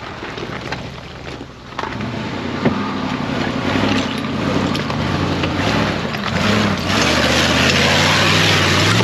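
Jeep Grand Cherokee ZJ's 5.2-litre V8 engine working under load, its pitch rising and falling with the throttle and growing louder from about two seconds in. A rushing hiss builds over the last couple of seconds.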